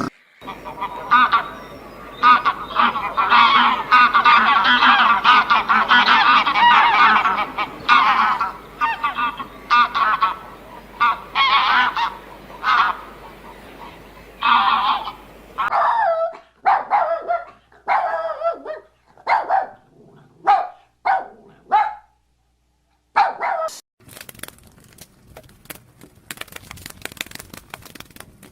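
A flock of birds calling, many short calls overlapping at first, then fewer separate calls, each dropping in pitch. Near the end the calls give way to a faint crackle.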